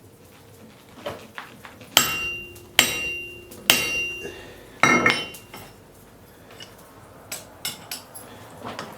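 Hammer striking a hot railroad spike on an anvil: four heavy, evenly spaced blows, each leaving a metallic ring. Lighter taps follow near the end.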